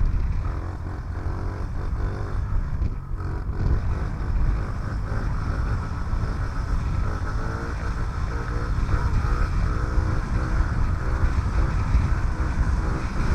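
The small single-cylinder four-stroke engine of a Honda CRF50F mini dirt bike running as it is ridden, its pitch rising and falling with the throttle.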